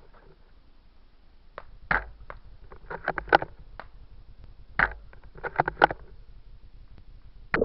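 A run of sharp clicks and knocks at irregular spacing, some in quick clusters, with a louder knock near the end.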